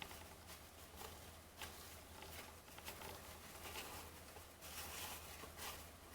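Faint soft ticks and rustles of trading cards being flipped through and stacked by hand.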